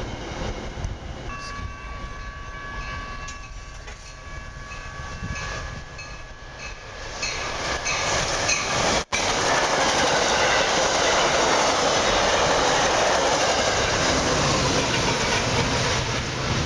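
Metra push-pull commuter trains on the rails: a quieter rumble with a few faint steady high tones, then, after a sudden cut about nine seconds in, a train passing at speed with loud, steady wheel and rail noise. That train is an express pushed from the rear by an EMD F40PH diesel locomotive.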